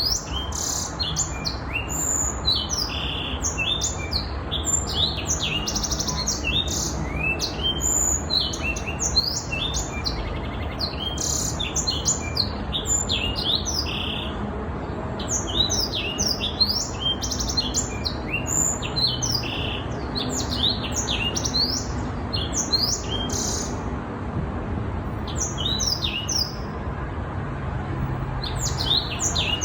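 A young black-throated canary (Crithagra atrogularis) singing a long, continuous song of quick twittering notes and sweeping whistles, with short buzzy trills mixed in. A steady low hum runs underneath.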